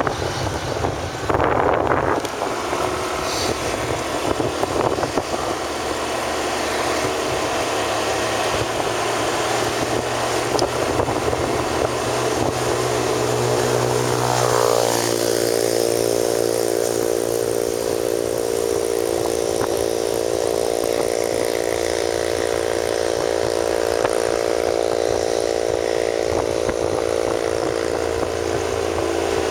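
Engine of a vehicle being ridden, with wind noise on the microphone. About halfway through the engine note drops in pitch, then holds a steady even hum.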